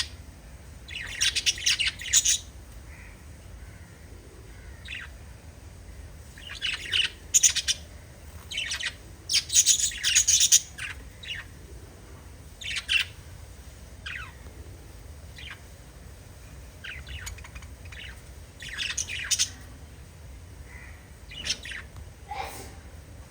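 Budgerigars chirping and chattering in short bursts every few seconds, with quieter gaps between.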